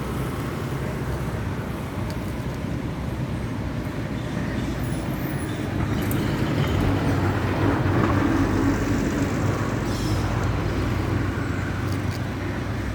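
Steady road traffic noise, with a vehicle passing closer and louder about halfway through before it fades again.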